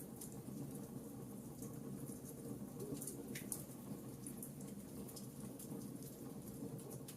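Wood campfire burning: a steady low rush of flame with many scattered sharp crackles and pops, one slightly louder snap about three and a half seconds in.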